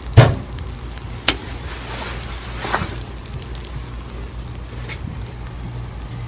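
Campfire crackling, with a few sharp pops. The loudest pop comes just after the start and another about a second later.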